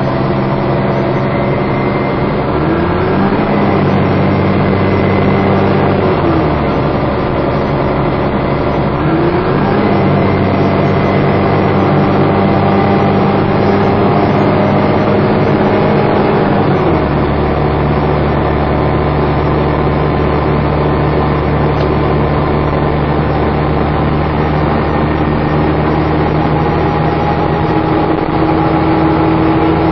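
Dennis Trident 2 double-decker bus engine and driveline heard on board under hard driving, its note dropping and rising several times with gear changes, then holding a steady lower note for the last dozen seconds. A faint high-pitched whine, the 'hoover' noise, runs over the engine.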